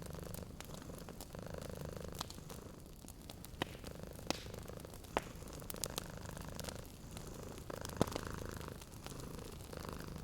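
Domestic cat purring steadily, the purr swelling and easing with each breath, over a wood fire crackling with a few sharp pops.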